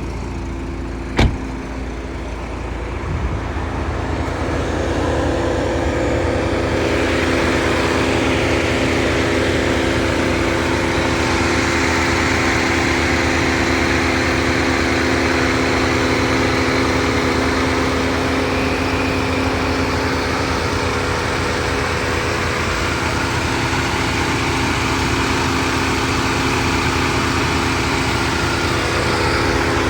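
A car engine running steadily at idle, a constant hum with a hiss over it, building up over the first few seconds. A single sharp click comes about a second in.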